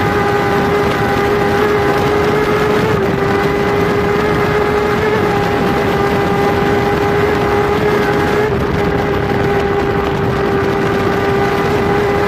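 Onboard sound of a Kawasaki superbike's inline-four engine running hard at high revs, its pitch held near steady over heavy wind rush, with brief wavers about three and eight and a half seconds in.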